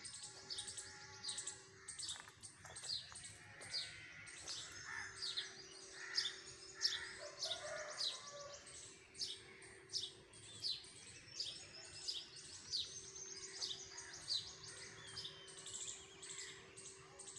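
Small birds chirping in the trees: a steady run of short, high chirps, each sliding down in pitch, about two a second, over a faint steady hum.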